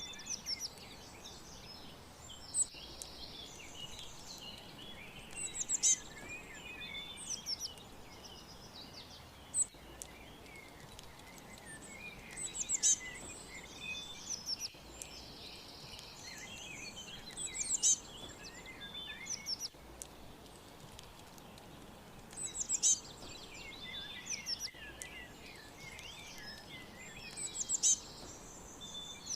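Small songbirds chirping and twittering, with high, quick calls and trills that swell into louder bursts about every five seconds over a faint steady hiss.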